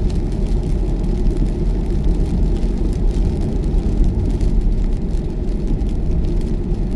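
Steady low road and tyre rumble inside a car cabin at motorway speed.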